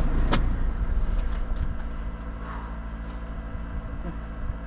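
Off-road 4x4 engines running. The loudest rumble falls away between one and two seconds in, leaving a steady low idling hum. A single sharp click comes shortly after the start.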